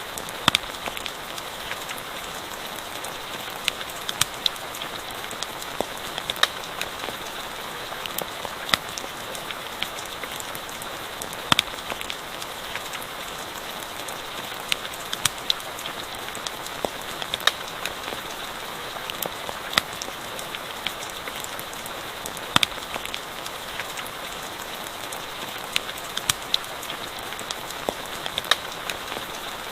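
Steady rain hiss with sharp, irregular crackles and pops of a wood campfire scattered throughout.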